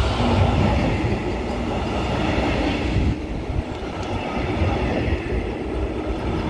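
DB Regio double-deck regional train rolling past at close range: steady rumble and rattle of its wheels running on the rails.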